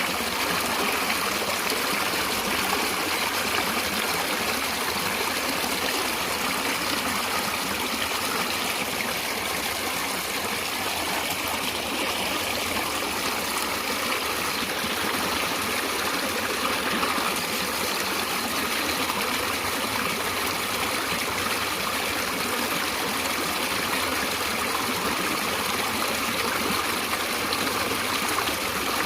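Natural water flowing steadily, a stream's even rush and trickle that does not change.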